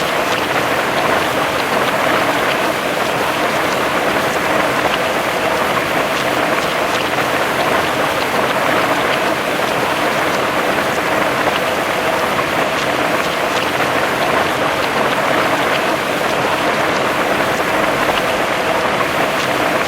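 Heavy rain falling steadily, a dense even hiss of drops with scattered small patters.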